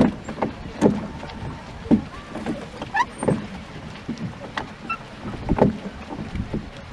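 Rowboat on a pond: irregular knocks and clunks from the oars and hull, with a short squeak partway through.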